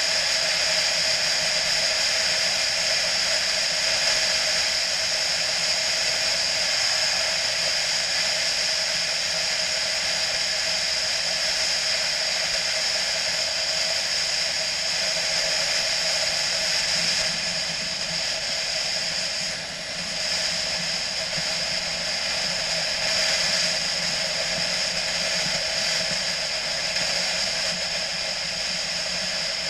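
A motorcycle on the move, heard as a steady rush of wind and road noise over the engine, with a short dip about twenty seconds in.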